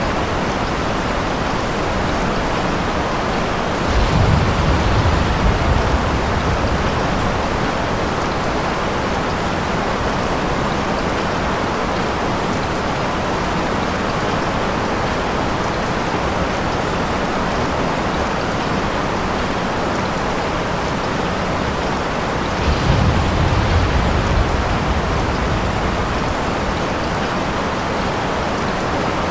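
Steady rain falling, an even hiss, with two low rumbles of distant thunder, one about four seconds in and another about twenty-three seconds in.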